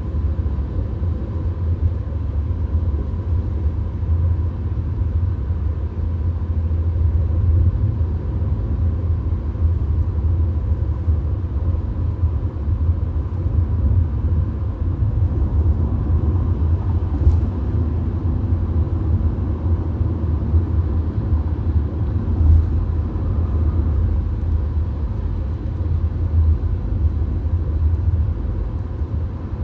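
Steady low rumble of road and engine noise inside a VW Golf's cabin at highway speed, with a faint steady whine and a couple of small knocks past the middle.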